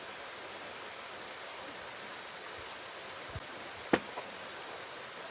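Steady rush of a mountain stream with an insect's thin, high, steady trill over it, and a single sharp click about four seconds in.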